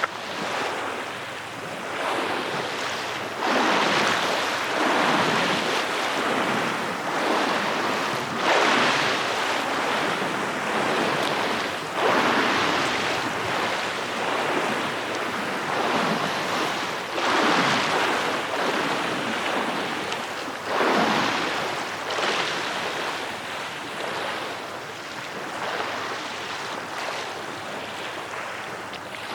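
Waves washing onto a shore, each surge swelling and fading over a second or two, about every four or five seconds.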